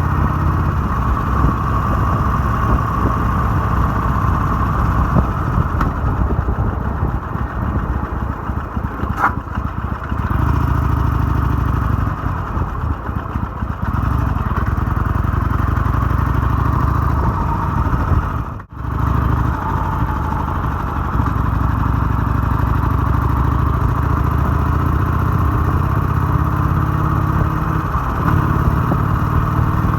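Harley-Davidson 883's V-twin engine running under way, its low-end exhaust beat rising and easing with the throttle. The sound drops out for an instant about two-thirds through.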